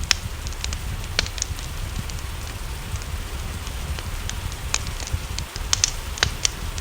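Wood fire crackling, with irregular sharp pops that come in little clusters about a second in and again near the end, over a steady hiss of rain and a low rumble.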